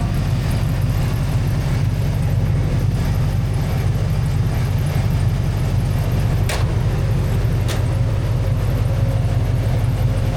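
1986 Chevrolet C10 pickup's engine running at a steady low drone, with no revving. Two short sharp clicks come a little past the middle, about a second apart.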